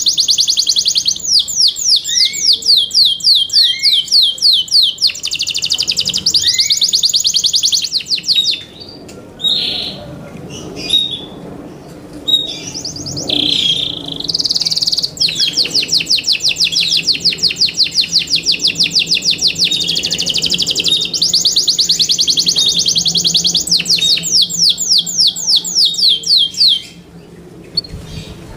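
Yorkshire canary singing: long, rapid trills of evenly repeated notes, broken by short pauses. A quieter stretch of a few scattered single notes falls in the middle, before the trilling resumes.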